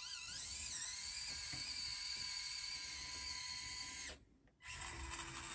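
Small RC crawler Jeep's electric motor and gears whining under throttle. The pitch wavers at first, then holds steady. The sound cuts out abruptly for about half a second some four seconds in, then resumes.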